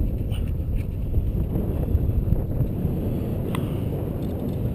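An-2 biplane heard from inside the cabin in flight: the steady low rumble of its nine-cylinder radial engine, mixed with wind noise.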